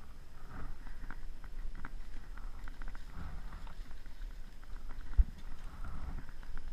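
Crackling and rustling of dry leaves and twigs underfoot, over a low rumble of handling and wind on a GoPro microphone, with one sharp thump about five seconds in.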